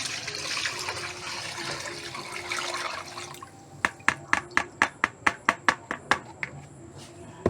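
Watery sago starch mixture being poured through a strainer, splashing for about three seconds. Then a quick run of about a dozen sharp taps, roughly four a second.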